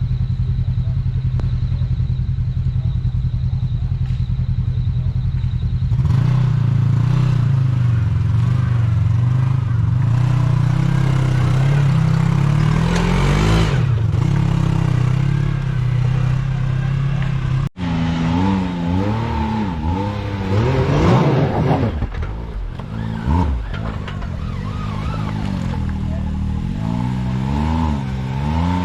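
Off-road vehicle engine running steadily, then louder under throttle. After a sudden cut about two-thirds of the way through, it revs up and down repeatedly, as when working over a rocky climb.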